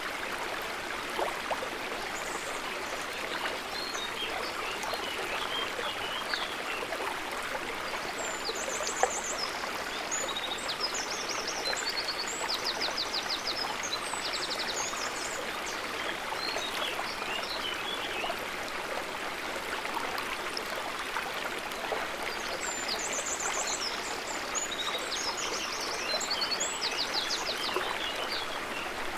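River water running steadily, with high chirping and trilling calls in two spells over it.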